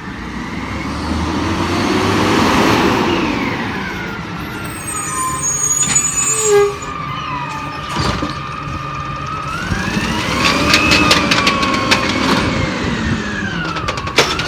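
Garbage truck's engine revving up and back down twice, with a whine that rises and falls along with it, as the hydraulics run. Rattling clanks come in during the second rev.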